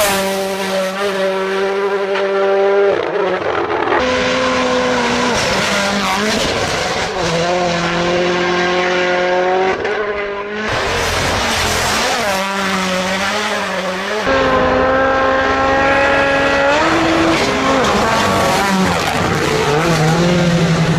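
Rally car engines at high revs, their note holding steady for a few seconds and then jumping or bending in pitch with gear changes and throttle lifts, as cars come by one after another.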